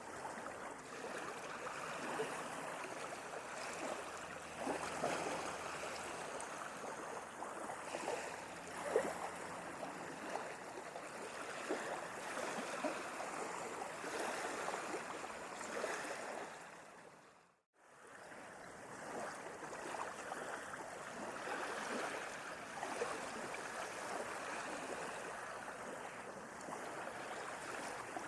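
Sea waves washing steadily with a fizzing crackle of water. About seventeen seconds in, the sound fades out to silence for a moment and fades back in.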